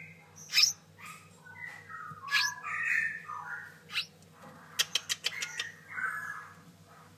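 A week-old straw-headed bulbul chick giving short, harsh squawking calls, with a quick run of sharp clicks about five seconds in.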